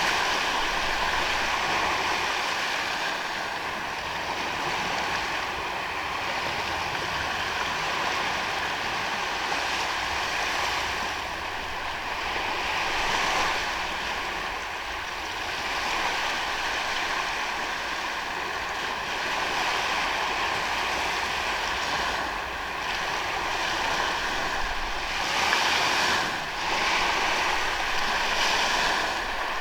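Sea waves washing onto a beach: a steady rushing surf that swells louder several times, most strongly near the end. A thin, steady high tone runs faintly under it throughout.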